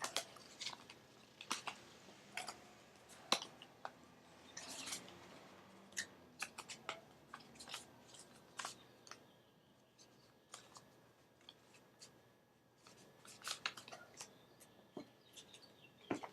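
Tarot cards being handled and sorted: scattered light clicks and taps of card stock, with a few brief sliding rubs.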